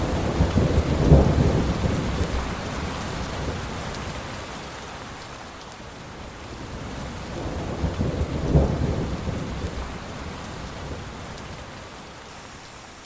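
Thunder rumbling, swelling twice and slowly dying away over a steady hiss.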